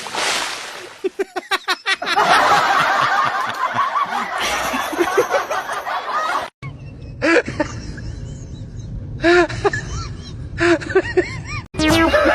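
Laughter and snickering in quick repeated bursts, broken up by abrupt cuts between clips.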